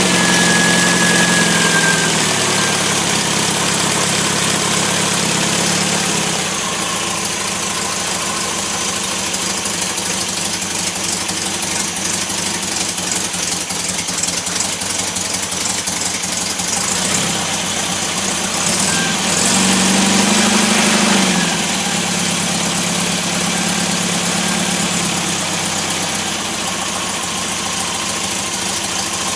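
Rebuilt MGB 18V 1.8-litre four-cylinder engine running steadily on an engine test stand, mostly at tick-over, with a brief change in its note about twenty seconds in.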